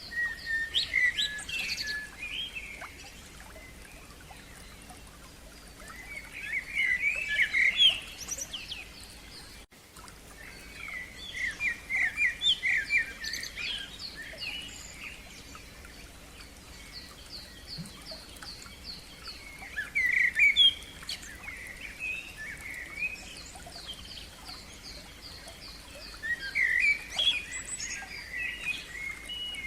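Songbirds singing in bursts of varied, twittering phrases several times over, with a fast run of high repeated notes from another bird behind them. There is a brief dropout about ten seconds in.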